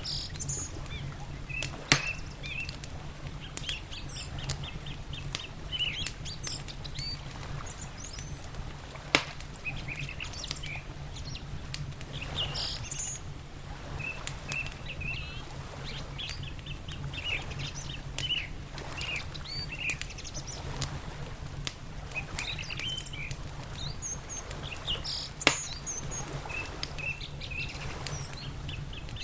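Mixed ambience: small birds chirping and singing throughout, over the crackle of a wood fire in a fireplace, with three sharp loud pops from the fire. A steady low rumble sits underneath.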